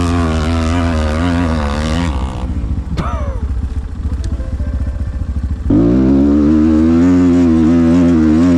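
Single-cylinder four-stroke engine of a Chinese enduro motorcycle running under throttle with a wavering pitch. It drops back to a low idle about two and a half seconds in, with a brief falling squeal, then is opened up sharply near six seconds and runs louder until near the end.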